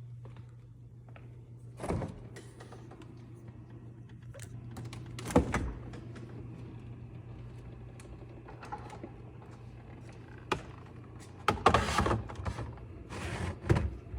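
Containers and fridge parts being handled: scattered knocks and thunks as things are set down and moved, with a busier run of clattering near the end, over a steady low hum.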